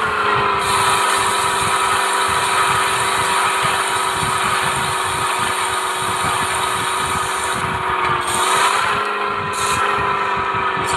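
Mahindra Thar's engine running at a steady pitch, with a brief dip and recovery in pitch about eight seconds in.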